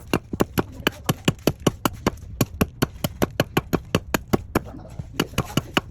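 Rapid, regular sharp knocks, about five a second, with a brief pause near the end, over a low steady hum.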